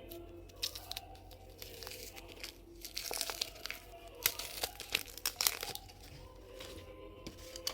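Crinkling and tearing handling noise: scattered clicks, then a dense run of crackly bursts from about three seconds in that lasts a couple of seconds.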